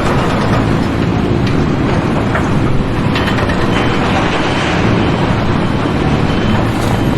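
A machine engine running loudly with continuous mechanical rattling and a few sharper clicks.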